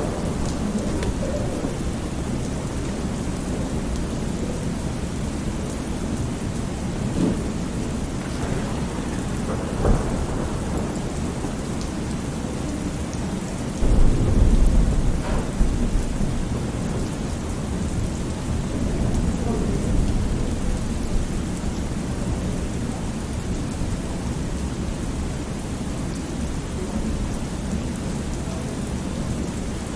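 Thunderstorm: steady rain with low rumbles of thunder, the loudest roll of thunder coming about halfway through and lasting a couple of seconds.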